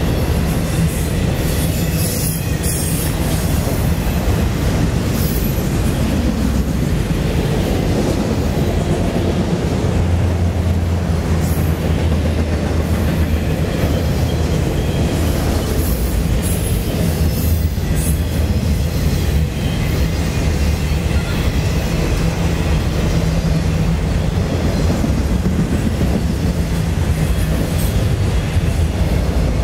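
Loaded autorack freight cars rolling past close by: a steady heavy rumble of steel wheels on the rails, with brief high-pitched wheel squeals a few times.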